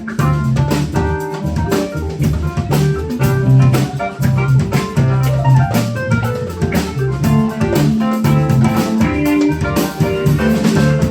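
A live band playing, with a drum kit keeping a steady beat under guitar.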